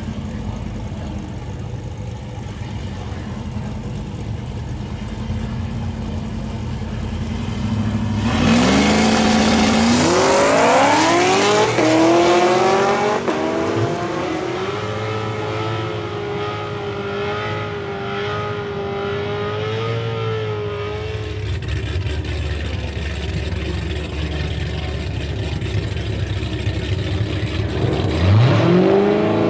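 Drag-race car engines: a steady low idling rumble, then about eight seconds in a car launches hard. Its engine note climbs in pitch in several steps, as at gear changes, then holds roughly level for several seconds. Near the end another engine revs up sharply with a fast-rising note.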